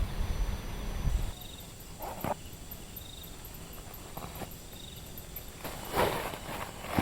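Low wind rumble on the microphone for about the first second, then insects chirping in a fast, regular, high-pitched pulse. A few short rustling noises come through the chirping, the loudest near the end.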